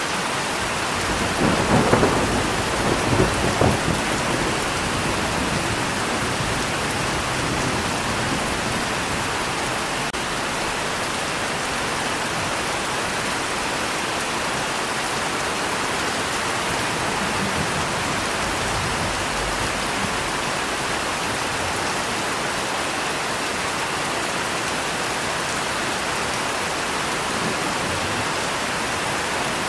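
Steady heavy rain with a crack of thunder and short rumbles about a second or two in, then steady rain.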